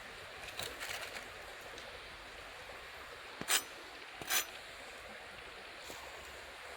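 Wood campfire burning with a steady hiss and small crackles, then two loud sharp pops about a second apart midway.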